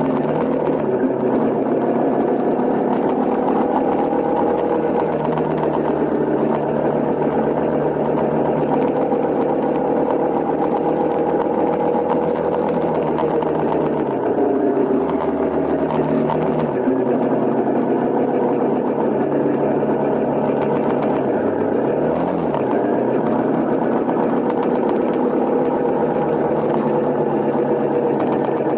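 Honda CRF250L's single-cylinder four-stroke engine running under way, its pitch dipping and picking back up twice, near the middle and about three-quarters of the way through.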